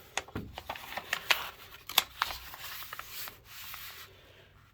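Paper rustling and crinkling as printed documents, the fan's installation instructions, are handled and pulled out.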